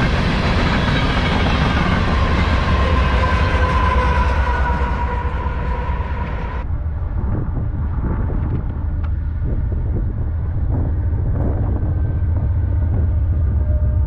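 Empty coal hopper cars of a freight train rolling past with steady wheel-on-rail noise and a faint steady whine; about seven seconds in the sound cuts abruptly to a low rumble as CSX diesel locomotives approach, their engine drone growing louder near the end.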